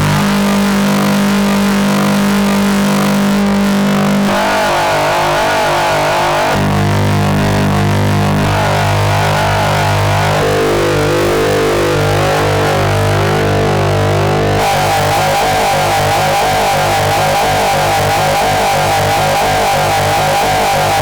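Experimental noise music: a loud, dense wall of droning tones. Its layers switch abruptly every few seconds, at about 4, 6.5, 10.5 and 14.5 seconds in.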